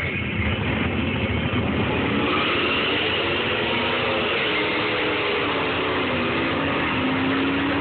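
V8 engines of a Chevrolet Camaro and a Ford Lightning pickup at full throttle in a drag race, the engine pitch rising and falling several times and sliding down near the end.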